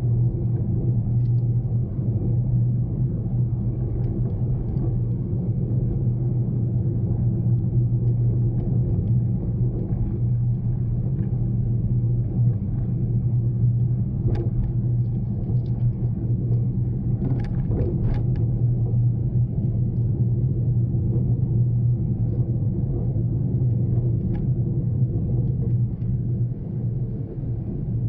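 Daihatsu Mira Cocoa being driven: a steady low engine and road rumble, with a few light clicks around the middle.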